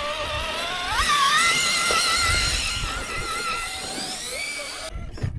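Electric motor and geartrain of an RC rock crawler whining under throttle. The pitch climbs sharply about a second in, holds with small wobbles, then eases down and cuts off near the end.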